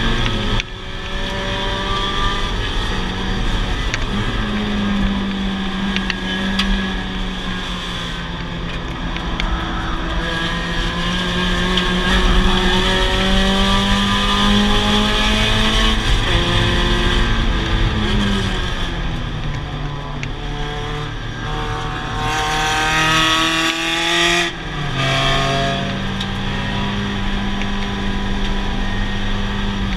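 Mazda Miata race car's four-cylinder engine heard from inside the cockpit, revving up and down through the gears at racing pace: pitch climbs under acceleration and drops on lifts and shifts. Near the end it climbs steeply to high revs, then cuts off sharply on a shift or lift.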